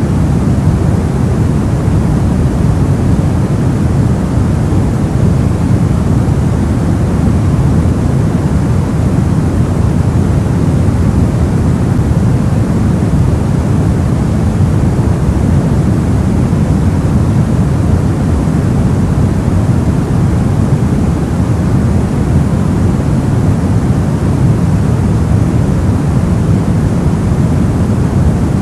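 Steady soft white noise, filtered so that most of it sits in the low end: an even, deep hiss that never changes.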